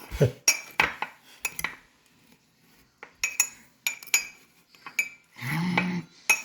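Metal fork clinking and scraping against a ceramic mug as chocolate chip cookies are crushed in it: sharp clinks in a few clusters with quieter gaps between. A short low hum near the end.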